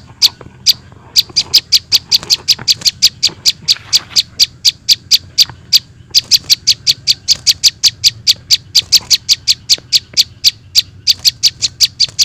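Juvenile prenjak (prinia) call played back as a bird lure: a fast, even series of short high chirps, about five a second, breaking off briefly about six seconds in and again near eleven seconds.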